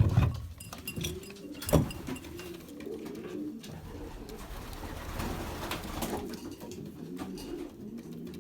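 Racing pigeons cooing in a loft, with a steady chorus of low warbling coos. A sharp knock comes right at the start, and another about two seconds in.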